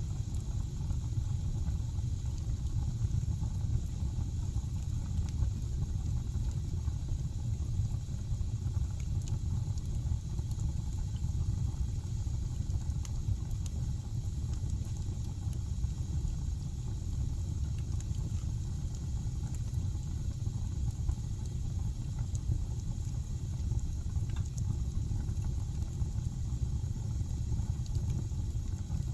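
Wood fire burning in a fireplace: a steady low roar with faint, scattered crackles.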